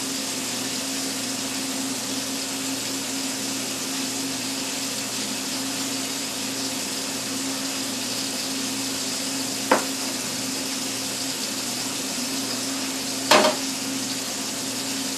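Liver and onions frying in a pan: a steady sizzling hiss over a steady low hum. Two sharp knocks cut in, about ten and thirteen seconds in.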